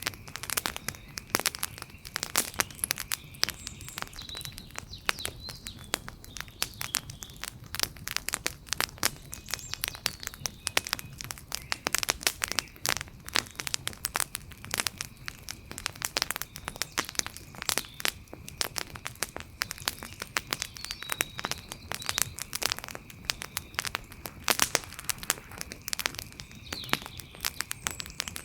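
Wood fire crackling: a dense, irregular run of sharp pops and snaps from burning logs over a low hiss.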